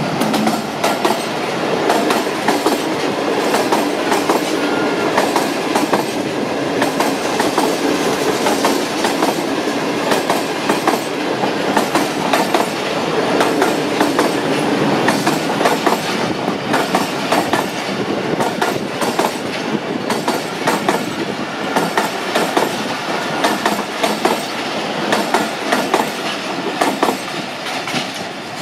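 Passenger express train's coaches passing close at speed: a steady rumble with rapid clickety-clack of the wheels over rail joints, easing slightly near the end as the last coach draws away.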